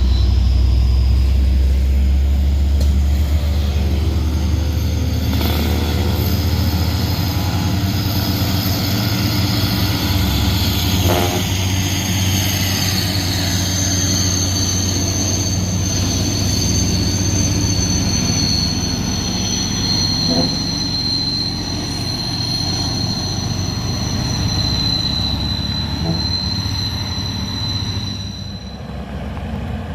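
Heavy truck's diesel engine labouring up a steep hill: a deep, steady rumble with a high whine over it that slowly falls in pitch and stops about two seconds before the end.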